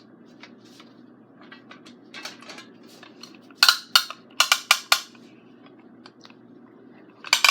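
Small handheld toy noisemakers clicking and clacking in quick clusters: sharp dry clicks, a few around two seconds in, a busier run from about three and a half to five seconds, and another burst near the end. A faint steady hum sits underneath.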